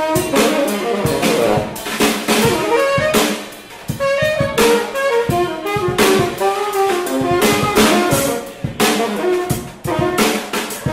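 Live jazz band playing: a saxophone line of quick notes over drum kit with cymbals and snare hits.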